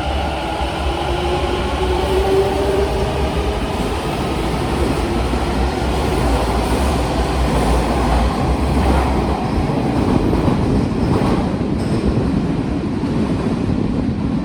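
Kintetsu electric train running at the platform: its motors whine, rising in pitch over the first few seconds, over a steady rumble of wheels on the rails.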